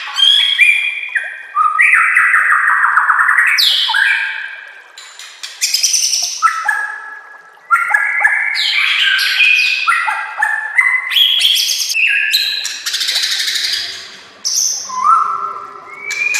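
White-rumped shama (murai batu) singing a fast, varied song: loud whistled phrases, slurred sliding notes and rapid trills with short pauses between, and a harsher buzzing stretch near the end, typical of a shama's repertoire full of mimicked notes.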